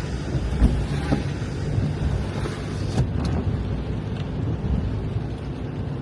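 Steady road and engine rumble inside a moving car, with rain hissing on the bodywork and a few short knocks.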